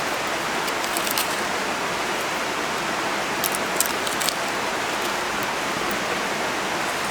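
Campfire burning with a steady hiss and a few sharp crackles and pops.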